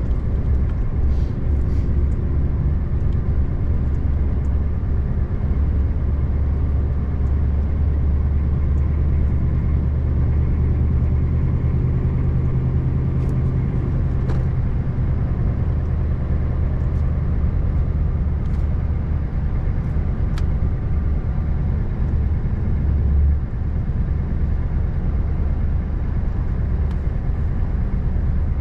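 Scania R590's 16-litre V8 engine running at a steady low drone under way, with an even rush of tyre and road noise. A deeper tone joins the drone for several seconds in the middle.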